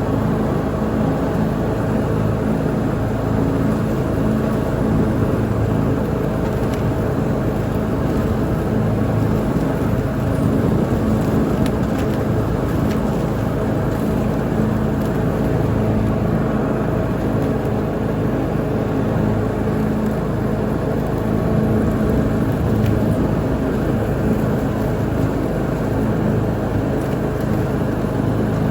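Lawn mower engine running steadily under load, a constant drone with only small swells in level.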